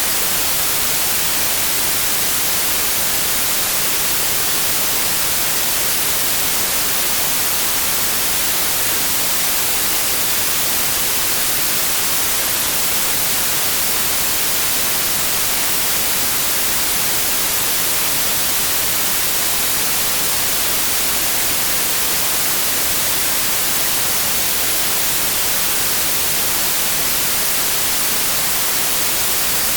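Steady, unchanging white noise: an even hiss across the whole range, brightest and hissiest in the highs, generated for noise masking.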